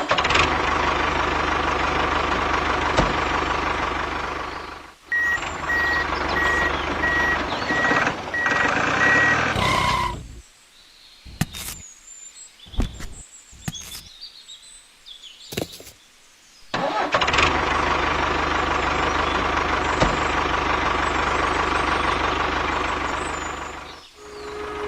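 Engine sound running steadily, cut off twice by edits. In the first part it carries a row of evenly spaced beeps like a reversing alarm. In the middle there is a quiet stretch with only a few clicks.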